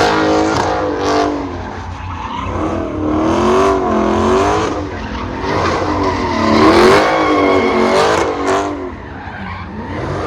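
Car doing donuts: its engine revs rise and fall over and over while the tyres squeal and skid on the pavement.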